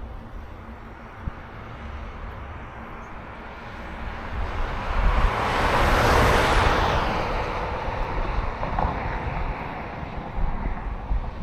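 A vehicle passing close by: its road noise swells to a peak about six seconds in and then fades away. Under it runs a steady low wind rumble on the microphone.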